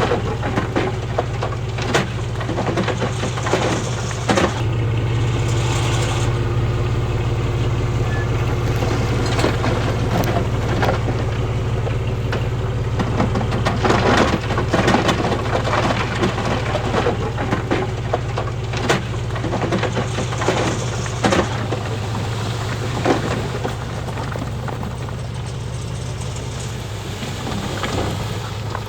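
Heavy diesel engine of a bulldozer running steadily, with stones crunching and knocking irregularly as rock is pushed and spread.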